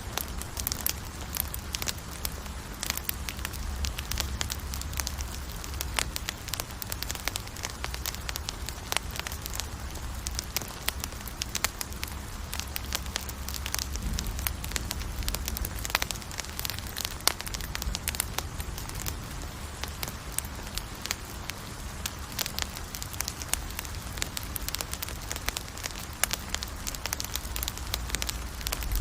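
Campfire burning, with dense, irregular crackles and sharp pops over a steady low rumble.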